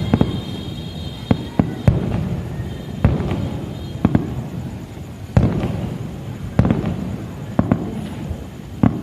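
Aerial firework shells bursting in a string of sharp bangs, roughly one a second and sometimes two in quick succession, each trailing off in a low rolling echo.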